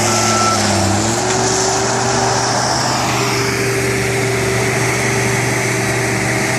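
Diesel engines of heavy construction machinery running steadily under work, one engine's pitch shifting briefly about a second in.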